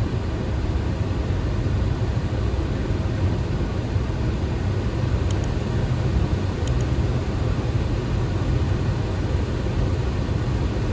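Steady flight-deck noise of a Boeing 737 on final approach with gear down and flaps 30: an even rush of airflow over a low rumble. Two faint ticks come about halfway through.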